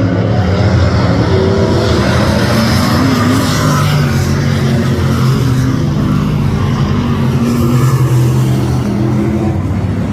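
Race car engines running loud and steady as cars lap a speedway track, their pitch rising and falling slightly.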